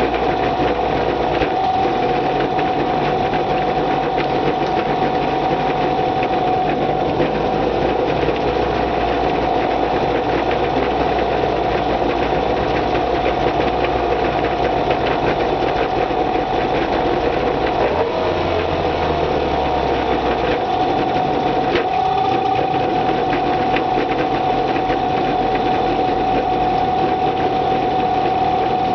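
Boat outboard motor running steadily at idle on its first run after winter storage, while its idle speed is being set. Its pitch wavers briefly about two-thirds of the way through, then settles again.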